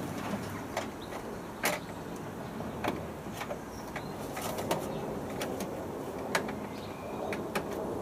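Irregular sharp clicks and light knocks, about one or two a second, from hands working on the washing machine's parts and fittings, over a steady background noise.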